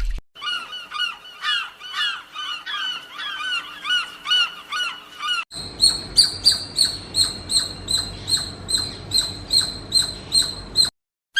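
Geese honking in quick, repeated calls for about five seconds, then a cut to a different run of higher-pitched bird calls repeating about three to four times a second.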